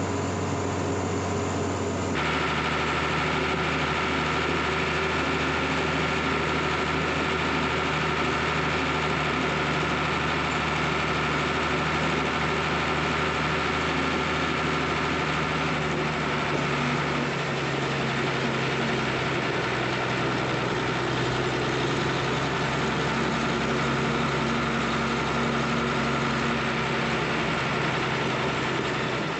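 Heavy farm machinery engine running steadily, its tone changing abruptly about two seconds in and shifting lower again a little past halfway.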